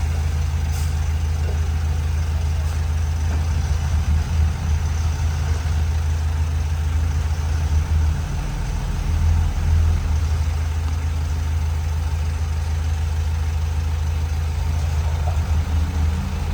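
Heavy construction machine's diesel engine running steadily with a deep low hum, swelling briefly a few times.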